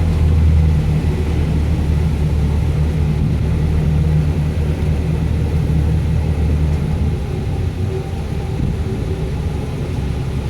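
Universal Atomic 4 four-cylinder gasoline inboard engine running smoothly after a cold start, purring along at a steady speed; its low note eases slightly in the last few seconds.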